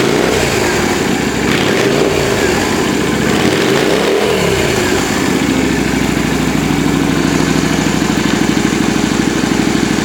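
Yamaha Drag Star 250's air-cooled V-twin engine, breathing through an aftermarket custom muffler, blipped several times, with the pitch rising and falling each time. About five seconds in it settles to a steady, lumpy idle.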